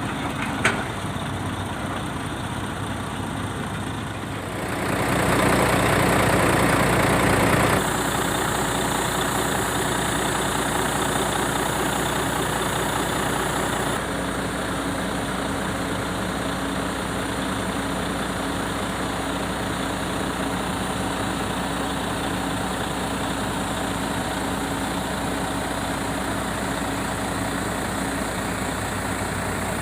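Heavy diesel engine running steadily; it grows louder about four seconds in, holds for a few seconds, then settles back to a steady idle-like run.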